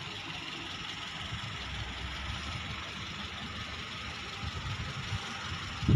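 A car engine idling steadily, with a low thump near the end.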